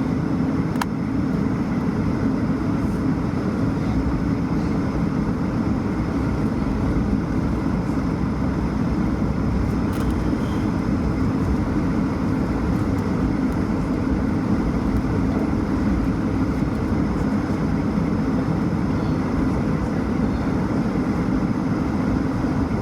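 Steady cabin drone of an Airbus A220-300 inside the cabin: its Pratt & Whitney geared turbofan engines and the airflow over the fuselage, a constant low rumble with a faint hum that holds the same level throughout.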